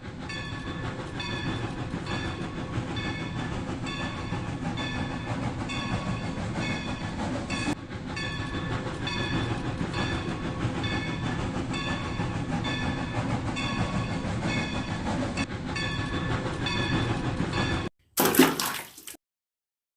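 Battery-powered Rail King toy train running on its plastic track: a steady motor-and-wheel noise with a short pattern of tones repeating a little more than once a second. It cuts off suddenly near the end, followed by a brief louder sound and then silence.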